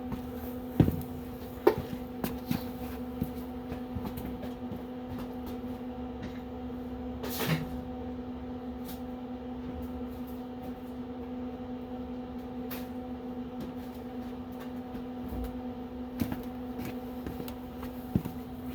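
Steady electrical hum of a flux-core welder's transformer, a low buzz with a few even overtones, while metal parts are handled: scattered sharp clicks and knocks, the loudest about a second in, and a short scraping rasp about halfway.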